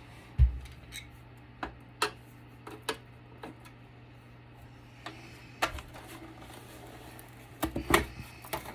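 Scattered clicks and knocks of a battery backup unit's casing being handled and worked apart on a table. There is a heavier thump about half a second in and a cluster of louder knocks near the end.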